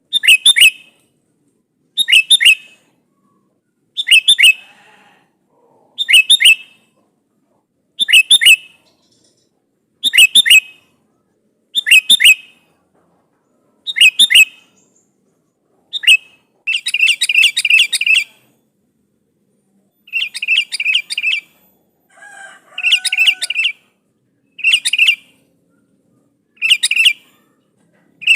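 Sooty-headed bulbul (kutilang) calling vigorously to a rival: a short, bubbly call phrase repeated about every two seconds, with a few longer chattering runs midway.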